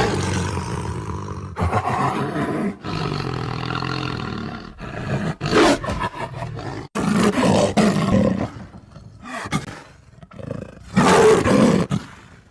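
Tiger roars and growls, a string of about six loud calls one after another. Several cut off or start abruptly, as edited clips joined end to end, and the loudest comes near the end.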